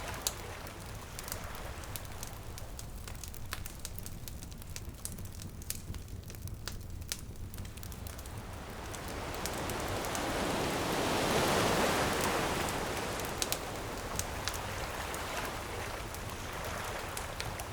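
Bonfire crackling with frequent sharp pops over a steady hiss, while an ocean wave swells in about halfway through, becomes loudest, then washes back out.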